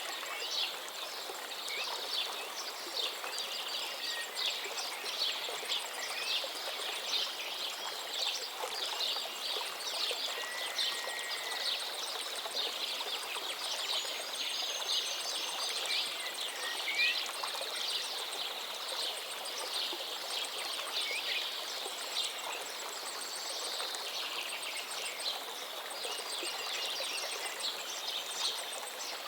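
Running water, a stream or small cascade, splashing steadily, with birds chirping and giving a few short whistles over it.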